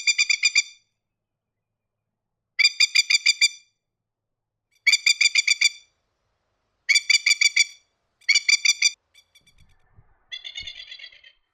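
Masked lapwing calling: five bursts of rapid, rattling staccato notes about two seconds apart, then a fainter burst near the end.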